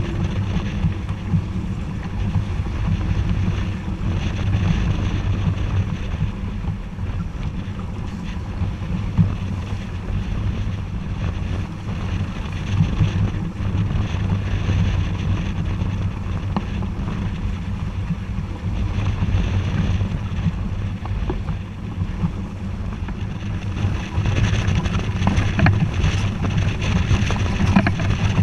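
Wind buffeting the microphone aboard a sailboat under way, a steady gusty rumble over the hiss of water moving past the hull.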